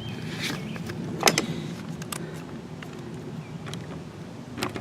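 A few light clicks and knocks, the loudest about a second and a half in and another near the end, over a low steady hum, as parts are handled close to the microphone.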